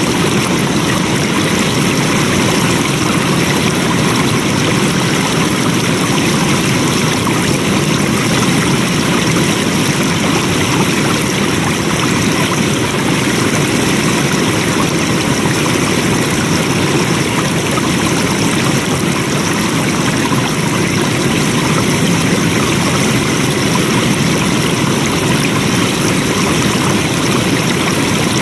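Flowing water running steadily, an even rush that does not change.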